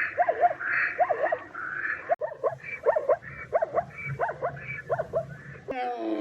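An animal giving a rapid series of short, yipping calls, each rising and falling in pitch, about two a second. Near the end a different, lower call comes in that slides down in pitch.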